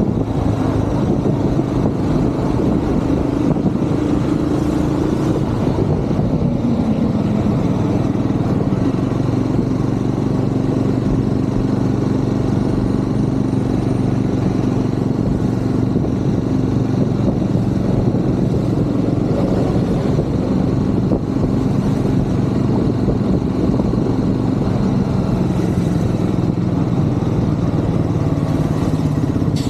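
Triumph Scrambler 400 X's single-cylinder engine running on the move through city traffic, its pitch shifting a little about five to seven seconds in and then holding steady.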